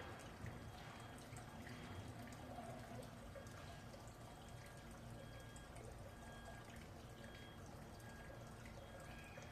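Red panda chewing bamboo: faint, scattered crisp crunches and ticks.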